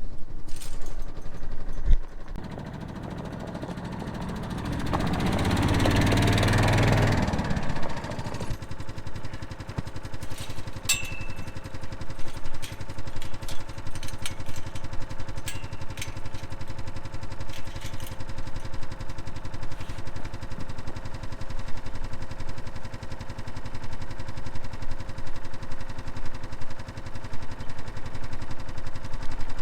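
A small vehicle engine idling steadily, with a louder rushing surge a few seconds in and scattered light clicks and rattles.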